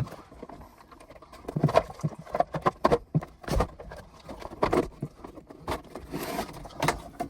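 Irregular clicks, knocks and light scraping of hands and tools working on a plastic condensate pump and its drain tubing as it is cut free and handled.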